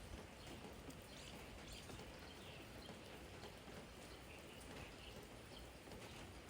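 Faint, steady spring rain, with scattered drops tapping on a garden jar.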